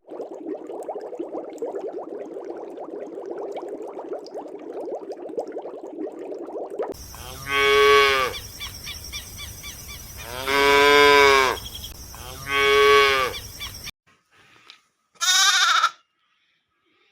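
A steady rustling noise for about seven seconds, then a cow mooing three times in long, loud calls. After a short break there is one briefer call near the end.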